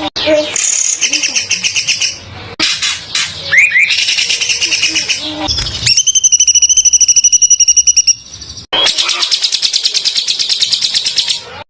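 Songbird singing harsh, very rapid, tightly packed bursts of song in short phrases, the 'tembakan kasar' style used as a masteran for training cage birds. About six seconds in comes a cleaner, high, evenly pulsed trill lasting about two seconds.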